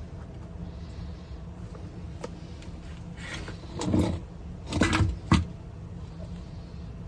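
Handling noises over a steady low hum: scraping and rustling about halfway through, then a louder knock and a sharp click.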